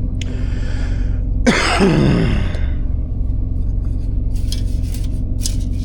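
A man coughs and clears his throat about a second and a half in, over the steady low hum of the semi truck's running APU. A few light clicks and rustles of handling follow near the end.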